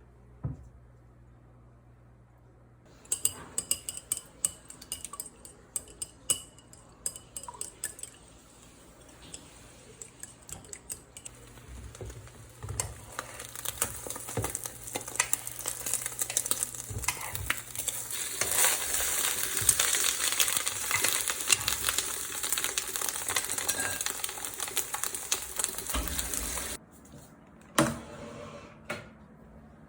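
Kitchen utensils clinking and knocking against dishes and a pan, then food sizzling in a frying pan while it is stirred, the sizzle building and stopping suddenly near the end.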